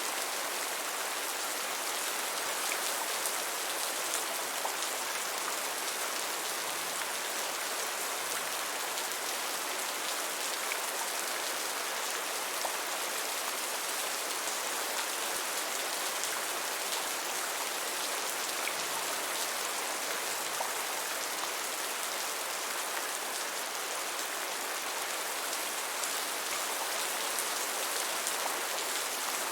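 Steady rain falling on a surface, an even hiss with scattered fine drop patter.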